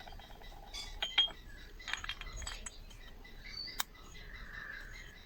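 Light clinks and clicks of small metal starter-motor parts being handled, with one sharper click about two-thirds of the way through.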